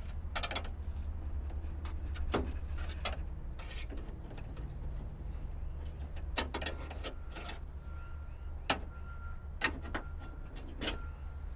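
Irregular metallic clicks and knocks from hand tools working on a car door to free its stuck window, over a steady low rumble.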